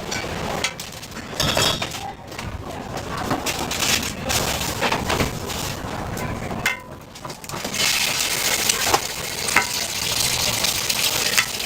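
Food frying in a pan at a street-food stall, with metal utensils scraping and clinking against it; the sizzle swells to a loud, steady hiss about eight seconds in.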